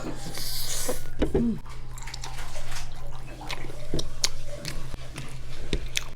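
A carbonated soft drink hisses briefly for under a second near the start. Liquid sounds and scattered small clicks follow.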